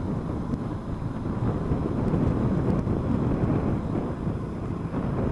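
Vehicle driving along a road: a steady low rumble of engine and road noise, with wind buffeting the microphone.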